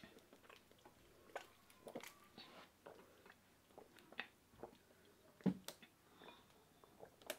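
Faint, close-up eating sounds: scattered small wet clicks and smacks of chewing and of fingers picking at food, one a little louder about five and a half seconds in.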